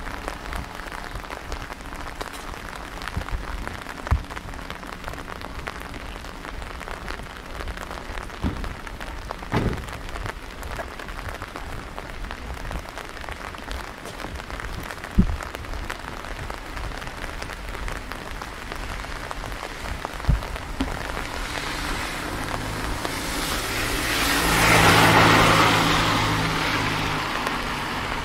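Steady rain pattering on an umbrella, with a few sharp louder taps. About 23 seconds in a car passes on the wet road, its tyre hiss swelling and then fading.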